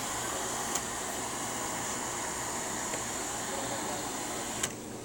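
Steady whirring noise like a fan or air conditioner running, which cuts off with a click near the end.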